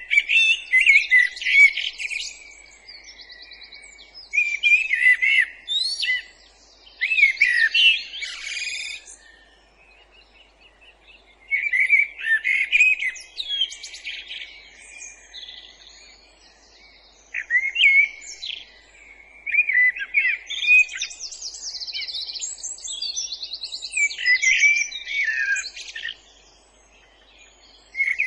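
Songbird singing in varied phrases of whistled glides and rapid trills, each a second or two long with short pauses between, over a faint steady background hiss.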